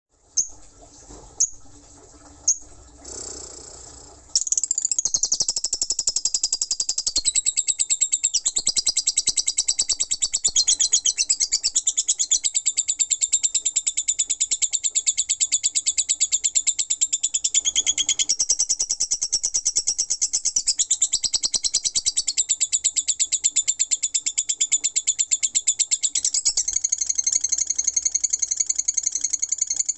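Lovebird in ngekek: a few single sharp chirps, then about four seconds in a long, unbroken, very fast high chattering trill that keeps going without a pause. Ngekek is the sustained, long-duration song that lovebird keepers prize.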